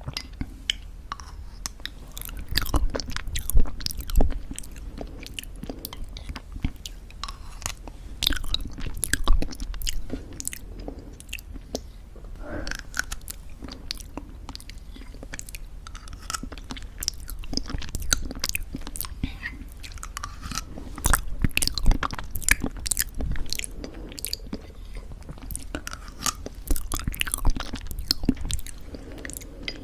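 Close-miked eating of thick yogurt with homemade granola: irregular crunching and chewing of the granola clusters, with soft wet mouth sounds between bites and louder bursts of crunching at a few moments.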